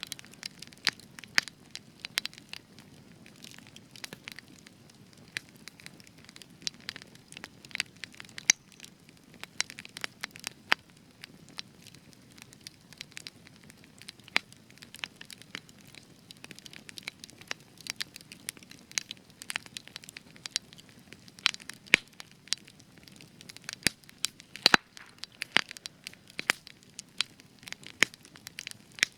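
Spruce wood burning in a campfire, crackling with frequent, irregular sharp pops over a soft low rumble of flame.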